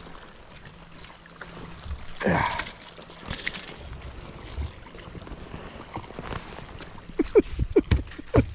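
A hooked smallmouth bass splashing at the boat, then a quick run of sharp knocks and rattles near the end as it thrashes.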